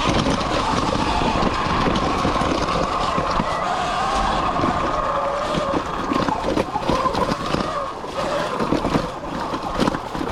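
Sur Ron X electric dirt bike's motor whining, its pitch rising and falling with the throttle and easing off after about six seconds, over wind on the microphone and the rattle of the bike over rough ground.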